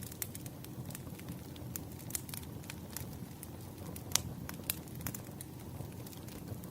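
Wood fire burning: a steady low rush from the flames with irregular sharp crackles and pops from the burning logs, the loudest pop about four seconds in.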